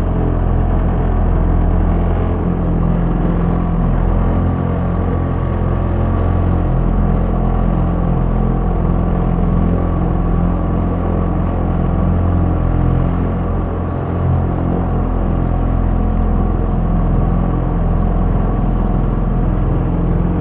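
Small 3-horsepower outboard motor running steadily at low cruising speed, a constant drone with no change in pitch.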